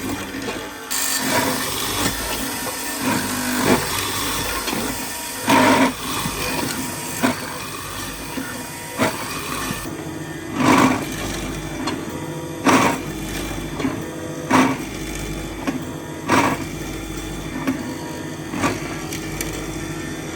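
Workshop sounds: a steady machine hiss for about the first half, then sharp knocks on wood roughly every two seconds.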